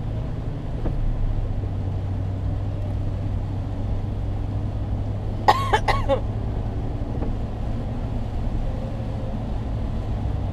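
Steady low hum and rush of rain heard from inside a running car. A brief squeaky chirp, a few arching notes, comes a little past halfway.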